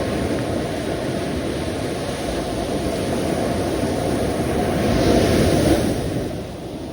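Sea waves washing onto the shore: a continuous rush of surf that swells to its loudest about five seconds in, then falls away.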